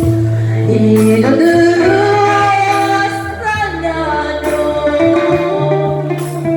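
Live music: a lead melody with gliding notes over guitar and steady bass notes.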